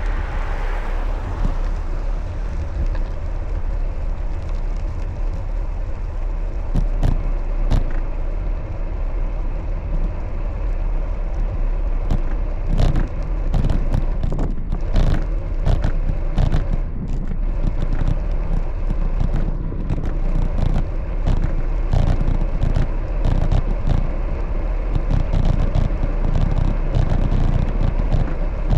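Steady low rumble of wind on the microphone and road noise from a bicycle being ridden, with frequent sharp clicks and rattles from about halfway through.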